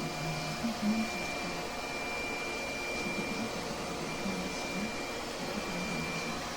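Vacuum cleaner running steadily, its motor giving a constant high whine over an even rushing noise.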